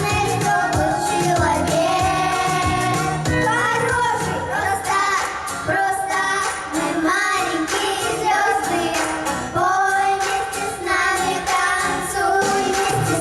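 Children's vocal ensemble singing a Russian pop song over an instrumental accompaniment with a steady beat.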